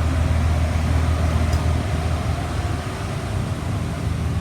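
A 2004 Blue Bird All American school bus engine idling steadily, heard from inside the passenger cabin as a low, even hum.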